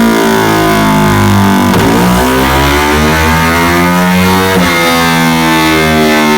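Modified Honda motorcycle engine running hard on a dyno through a left-side aftermarket exhaust. Its pitch climbs from about two seconds in, breaks sharply just past the middle, then climbs again.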